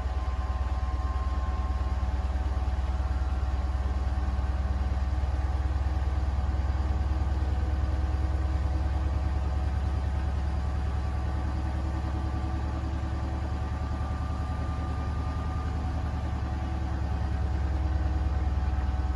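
Beko WTK104121A washing machine running with its drum spinning: a steady low rumble with a few even motor tones above it.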